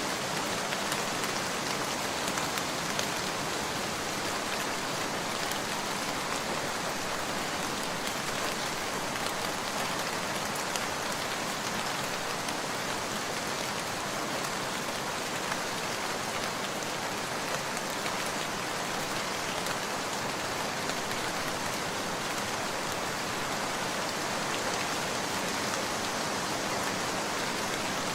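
Steady rain falling, an even hiss of many drops with scattered faint ticks.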